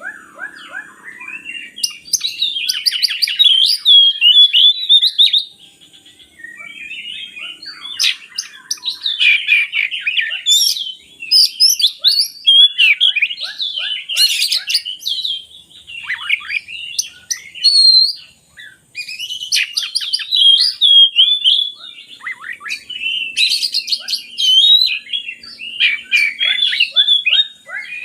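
Oriental magpie-robin (kacer) singing a loud, varied song of rapid whistles, trills and chattering notes, delivered in bursts with short pauses between phrases.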